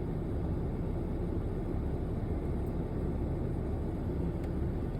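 Steady low vehicle rumble, even and unbroken.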